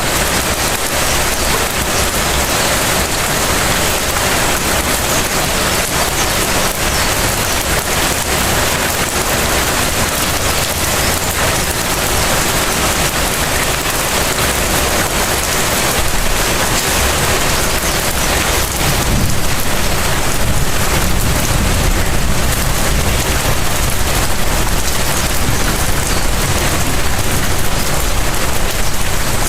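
Steady rain falling on surfaces outside a house, an even dense patter and hiss. A deeper low rumble strengthens about two-thirds of the way through.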